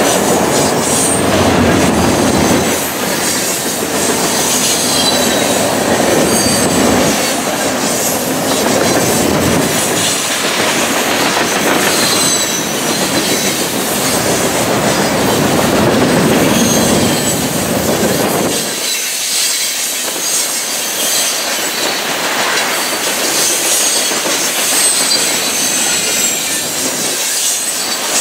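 Freight train's gondola cars rolling past close by: a continuous rumble and clatter of steel wheels over the rail, with short high-pitched wheel squeals coming and going. About two-thirds of the way through, the low rumble falls away, leaving mostly the higher rattle and squeal.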